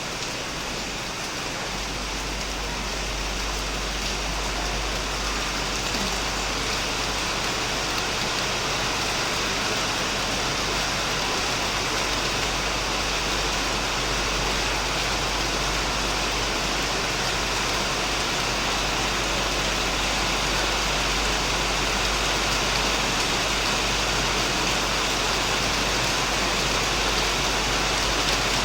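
Heavy rain falling steadily on a shed roof and plants: a dense, even hiss of drops. A low rumble joins underneath about two seconds in, and the rain grows slightly louder.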